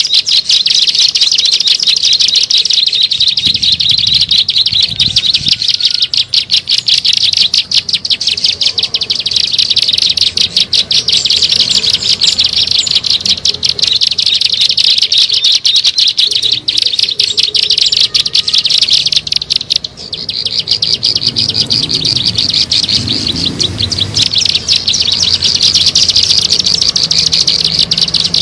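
Recorded ciblek sawah (a prinia) song used as a bird-trapping lure: a loud, very rapid, buzzy trill that goes on almost without pause. It breaks off briefly about twenty seconds in.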